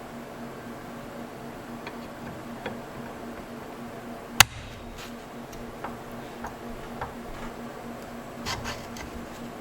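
Scattered light clicks and taps, with one sharp knock about four and a half seconds in, over a steady low hum.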